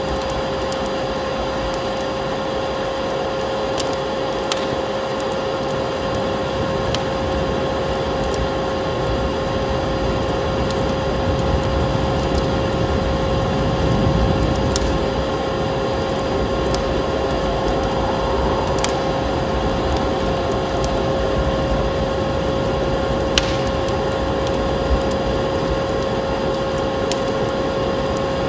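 Wood fire crackling with scattered sharp pops, over the steady drone of a running vacuum cleaner with a constant whine.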